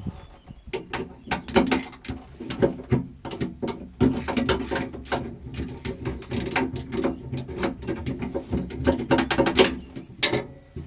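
Hand tools working on metal machine parts: a busy run of irregular clicks and clanks, much like a ratchet or wrench being worked, stopping shortly before the end.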